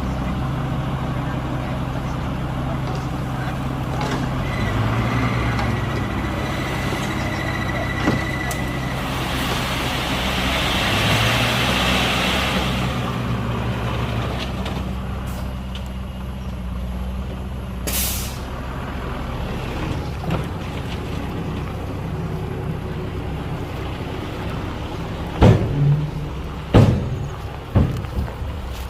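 Diesel dump truck engine running steadily, with a long hiss of air about a third of the way in and a short, sharp air-brake hiss later. Several loud knocks near the end.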